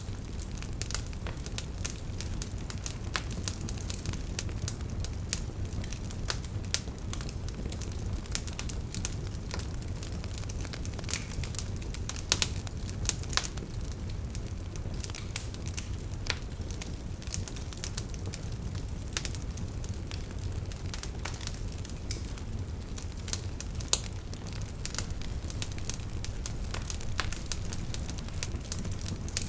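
Wood campfire burning: a steady low rumble of flame with many irregular sharp crackles and pops of burning firewood, a few louder pops scattered through.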